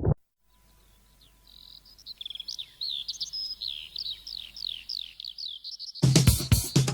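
A small songbird singing a quick run of high, falling chirped notes. About six seconds in, music with a drum beat starts.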